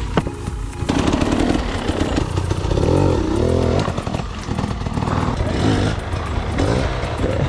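Dirt bike engine revving up and down again and again as the throttle is worked on a trail ride.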